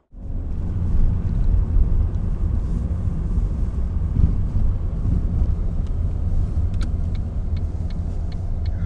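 A car driving, heard from inside the cabin: a steady low road and engine rumble. Near the end a run of light, evenly spaced ticks sounds over it.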